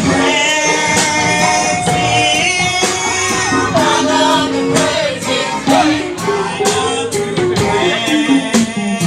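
Live gospel praise music: singers over a band with drums keeping a steady beat.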